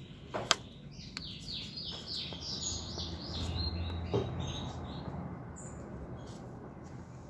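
A bird singing, a quick run of short falling chirps lasting a few seconds, with a sharp click about half a second in.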